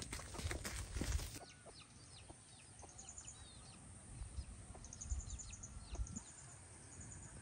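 Chickens peeping and clucking: many short, high, falling peeps, some in quick little runs, with a few low thumps and knocks in the first second or so.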